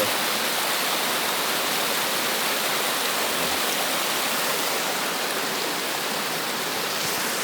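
Steady rushing of river water falling and running over rocks, an even unbroken noise.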